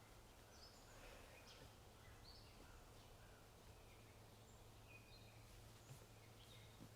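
Faint birdsong: scattered short, high chirps and whistles over a steady low hum.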